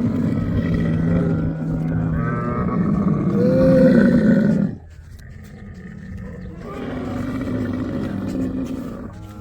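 Camels growling: loud, rough, drawn-out growls that stop abruptly a little under five seconds in, followed by a quieter growl near the end.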